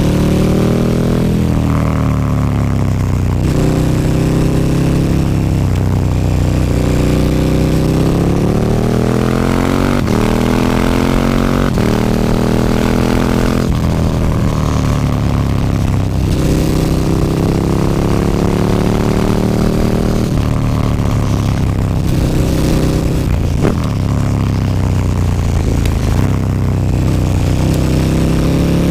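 KTM 1290 Super Duke R's V-twin engine through an Akrapovic slip-on exhaust with the dB killer removed, under way: the revs climb and fall again and again as it pulls through the gears and slows. A few sharp cracks stand out along the way.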